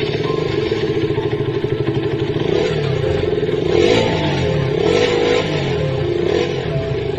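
KTM Duke motorcycle's single-cylinder engine running as the bike pulls away, with the revs rising and falling several times about halfway through as it gets up to speed.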